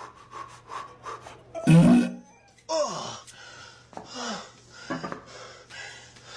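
A person's voice making short, breathy vocal sounds like gasps and pants, with no clear words; the loudest comes just under two seconds in.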